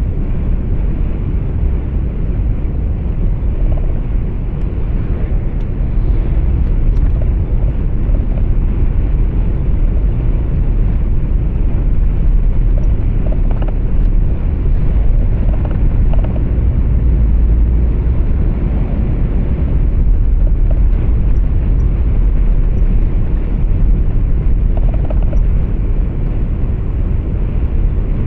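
Truck engine and tyre noise heard from inside the cab while driving: a deep, steady rumble with no breaks, a little louder after the first few seconds.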